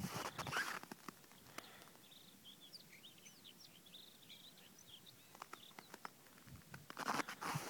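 Small birds chirping: a flurry of short, high calls through the middle. Crunching noises at the start and again near the end.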